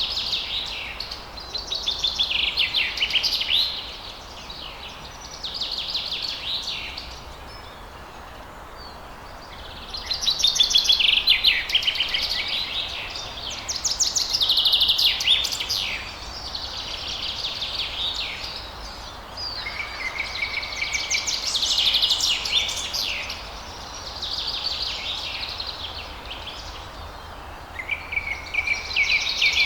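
Songbird singing over a steady hiss of background noise: phrase after phrase of rapid trills and warbles, each about two to three seconds long with short pauses between.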